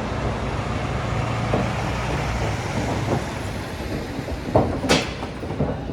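Heavy road traffic, a bus or truck engine rumbling steadily, then two sharp loud knocks near the end.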